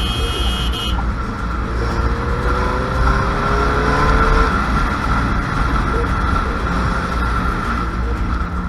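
Road traffic with motor vehicle engines running and a heavy low wind rumble on the microphone. One engine note rises in pitch as it accelerates between about two and four and a half seconds in.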